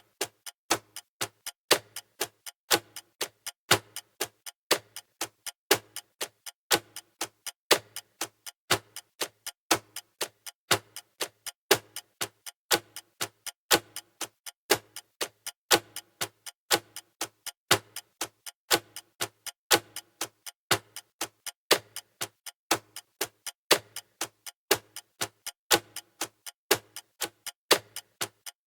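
Clock-style ticking of a countdown timer's sound effect: even, sharp ticks about four a second, with a louder tick about once a second.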